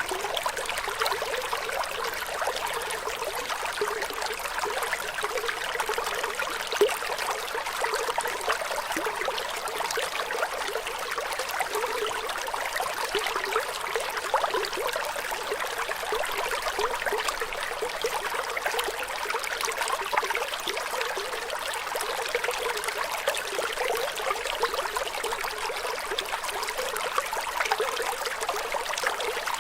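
Flowing water trickling steadily, a continuous bright splashing with almost no low rumble.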